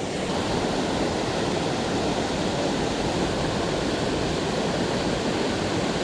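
Steady rush of river water pouring over falls, an even, unbroken roar of water.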